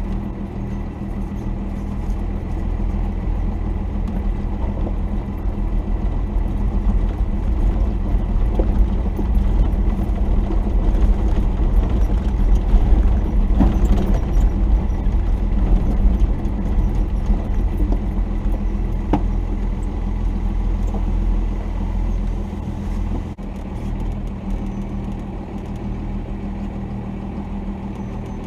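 1990 Dodge D250's Cummins diesel engine running steadily at low revs, getting a little louder about halfway through and dipping briefly near the end.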